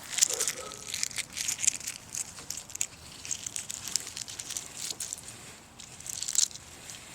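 Dry twigs of a nest-like bowl crackling and crunching as it is handled: a run of irregular small cracks, thickest about a second in and again near the end.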